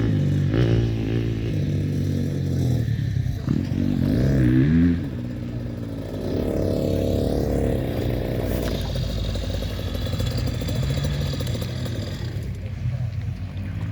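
Motocross bike engines revving, rising and falling in pitch over the first five seconds, then settling into a lower, steadier drone.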